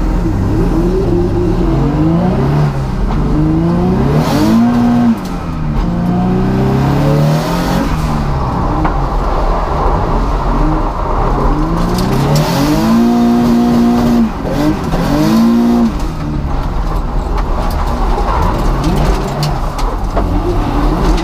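Drift car's engine revving hard, its pitch climbing and falling again and again, held high for a moment twice.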